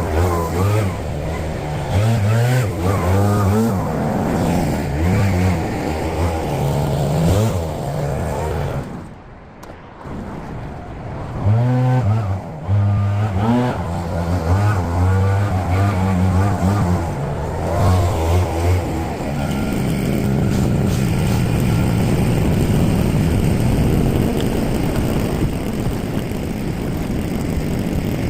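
Small two-stroke petrol engine of a garden power tool, revved up and down over and over as the throttle is worked, dropping back briefly about nine seconds in. From about two-thirds of the way through it is held at a steady high throttle.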